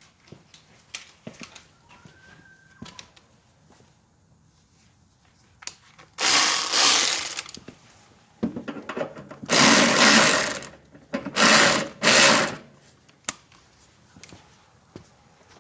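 Handheld power drill running in four bursts, the first two about a second or more long and the last two shorter, with lighter tool clicks and knocks before them.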